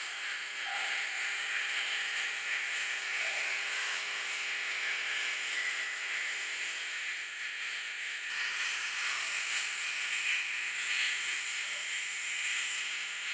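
Wood bonfire burning, a steady hiss with faint crackles.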